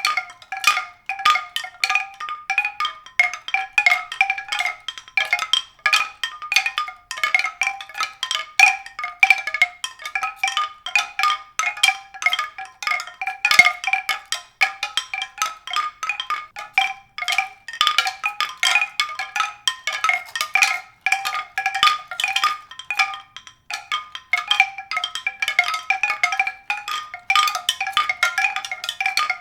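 Music of tuned, mallet-struck percussion notes, like a marimba or glockenspiel, played in a steady stream of many short notes a second.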